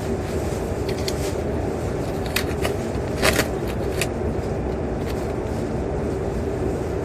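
Steady engine rumble inside a vehicle cabin, with a few short clicks and rattles, the loudest about three seconds in.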